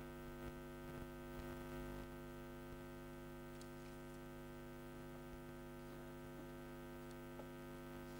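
Steady electrical mains hum with a faint buzz, and a few faint clicks.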